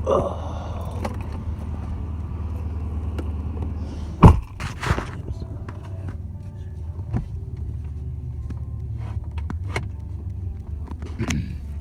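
Dodge Charger R/T's 5.7-litre Hemi V8 idling steadily, still warming after a cold start. A loud sharp thump about four seconds in is followed by a second knock, and a few lighter clicks come later.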